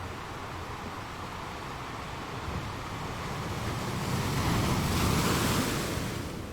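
Ocean waves breaking on a shore: a steady wash of surf that swells about halfway in as one wave builds and crashes, then eases off near the end.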